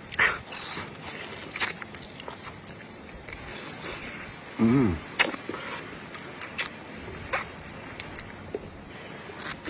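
Close-up eating sounds: chewing and gnawing meat off a sheep's leg bone, with scattered sharp clicks. A brief hummed or voiced sound comes about five seconds in.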